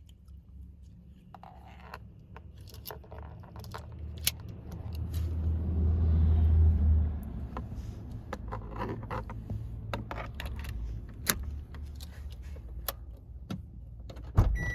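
Toyota Noah minivan engine starting: a little over four seconds in it comes up, its speed rises to a peak and then drops back about seven seconds in to a steady idle. Scattered sharp clicks and rattles run throughout.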